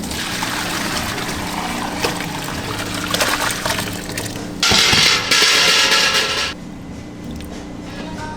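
Running water splashing steadily, with a louder, harder gush for about two seconds near the middle that stops suddenly.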